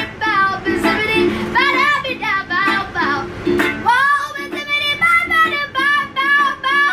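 A young girl singing a song, with a ukulele playing chords in a steady rhythm underneath.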